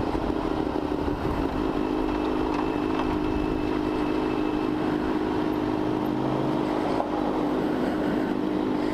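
Motorcycle engine running steadily, holding an even pitch without revving up or down.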